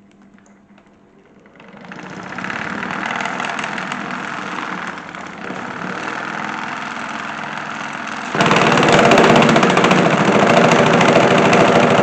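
Toy washing machine made from a salad spinner running, its motor and spinning basket giving a steady rattling whirr. About eight seconds in it suddenly gets much louder and rattles harder.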